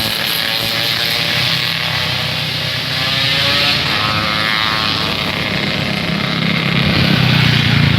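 Motorcycle engine running through a hollowed-out, baffle-less trumpet exhaust. The engine note shifts in pitch a little and grows louder and deeper near the end.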